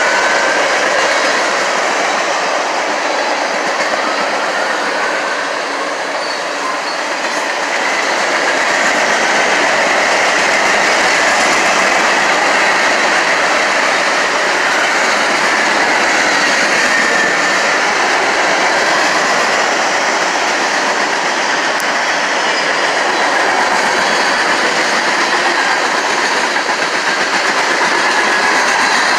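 NS train running on the rails: a steady rush of rail noise with wheel clatter, and faint high tones that slide in pitch.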